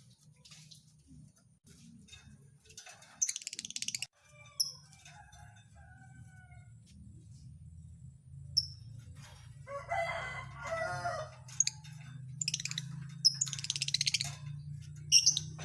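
Lovebirds giving short, shrill, buzzy chirps and calls in several bursts, with a longer, lower call about ten seconds in. A steady low hum lies underneath.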